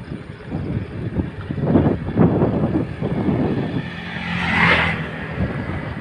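Wind buffeting the microphone over road traffic noise, with a vehicle passing close by about four to five seconds in, its hiss swelling and fading.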